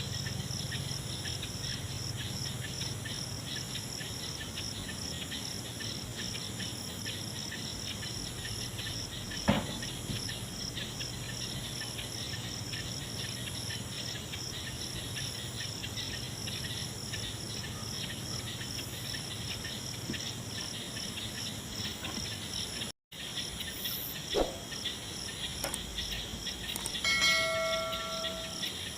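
Night insect chorus, a steady, high, pulsing trill. A sharp click about a third of the way in, a few more clicks near the end, and a short steady tone shortly before the end.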